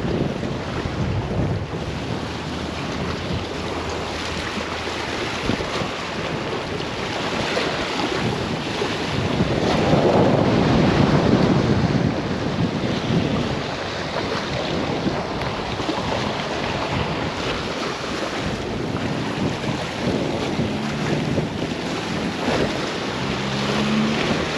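Strong wind buffeting the microphone over choppy water, swelling into a stronger gust about ten seconds in.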